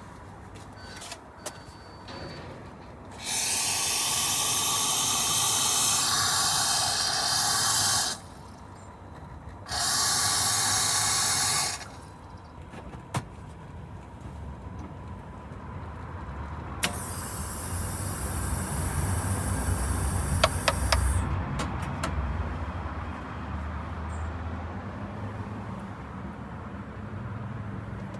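Espresso machine steam wand hissing in three bursts: a long one whose tone shifts partway through, a shorter steady one, and a higher, thinner one near the end with a few clicks.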